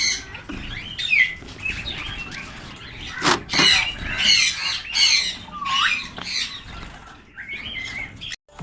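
Java sparrows calling: a run of short, harsh chirps and chattering notes, a few of them sliding in pitch, breaking off just before the end.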